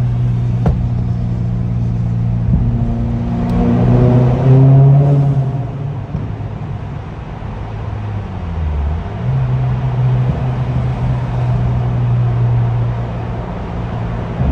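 2023 Subaru WRX's turbocharged 2.4-litre flat-four running through an aftermarket exhaust. The note swells to its loudest about four to five seconds in, eases back, then holds steady.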